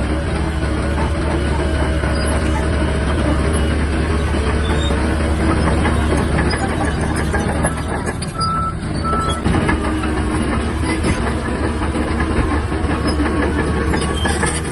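Shantui DH17-C3 crawler bulldozer working, its diesel engine running steadily with continuous clanking track clatter. Two short beeps sound a little past the middle.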